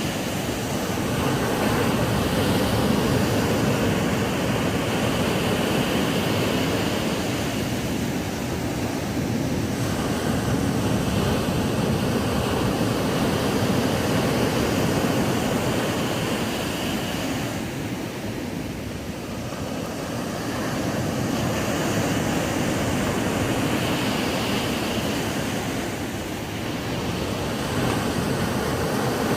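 Ocean surf breaking on a sandy beach: a continuous wash of waves that swells and eases every several seconds, with dips about eight seconds in, near the middle, and near the end.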